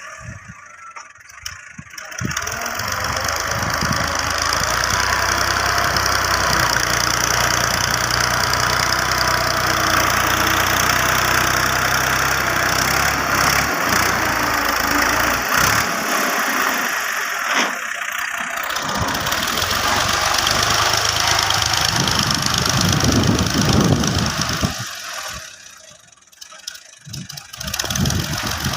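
Tractor engine running steadily, with the sound dropping away briefly near the start and again near the end.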